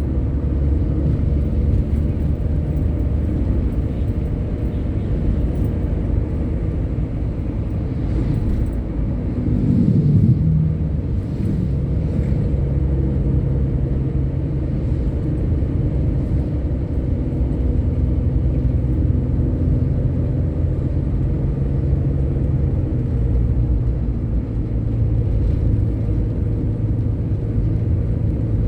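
Large bus engine and road noise while driving, a steady low drone; around ten seconds in the engine note falls and settles lower.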